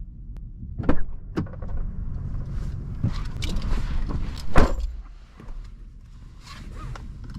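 Inside a pickup truck's cabin: a steady low engine rumble with rattles and several sharp clicks and knocks, the loudest about four and a half seconds in.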